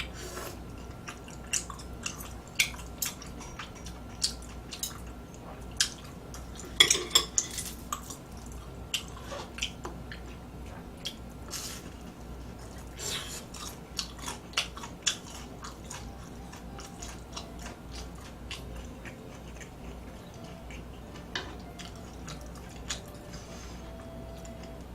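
Eating sounds: chewing, with utensils clicking and tapping against a dish in irregular sharp knocks. The knocks are busiest in the first half, with a loud cluster about seven seconds in.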